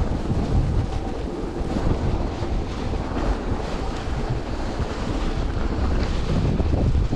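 Strong blizzard wind buffeting the microphone: a dense, steady rumble with a rushing hiss above it.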